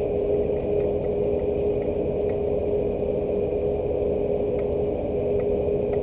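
Steady machine hum with one constant tone held throughout, over a low even rumble, with a few faint scattered ticks.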